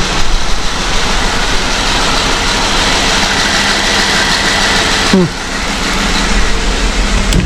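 Jeep Wrangler's freshly swapped 3.6L Pentastar V6 running a little rough on its first run after the swap, with a misfire that is most likely a valve lash adjuster that hasn't yet bled out its air. A loud rushing noise over it drops away about five seconds in with a short falling whine, leaving a steadier idle.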